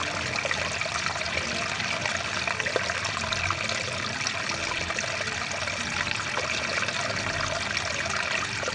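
Rushing water of a stream, a steady, even rush with no break.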